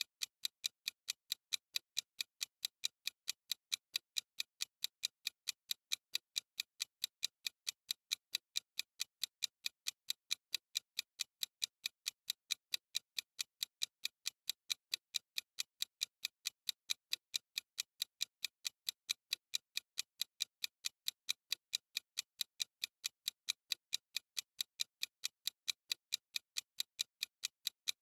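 Clock-ticking sound effect of a countdown timer: crisp, evenly spaced ticks, several a second, going on without change.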